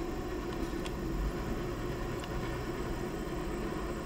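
Steady low engine hum of vehicles idling at a railroad crossing, with a few faint ticks.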